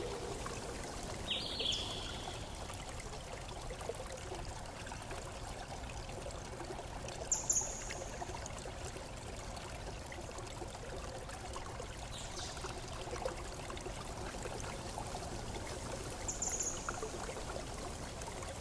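Water trickling and flowing steadily, like a small stream. Three short, high, falling chirps come over it: about a second in, about seven seconds in and near the end.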